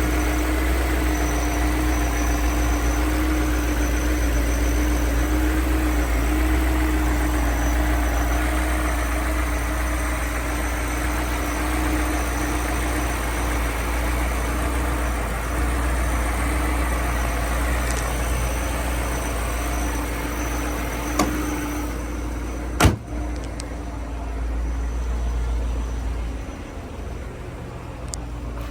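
2002 BMW M5's 4.9-litre V8 idling steadily while warming up from a cold start. Near the end there is a single sharp thump, after which the engine sounds duller.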